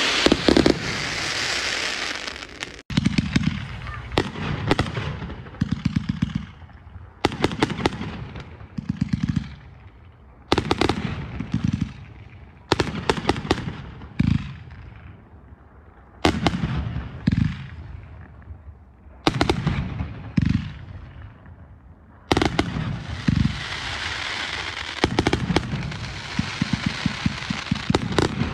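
Fireworks going off: repeated sharp bangs, often in quick clusters, each trailing off in an echo. A dense crackling hiss fills the opening couple of seconds and returns near the end.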